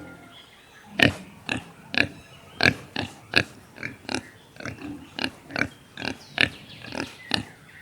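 Pig grunting in a fast series of short, sharp grunts, about two or three a second, beginning about a second in.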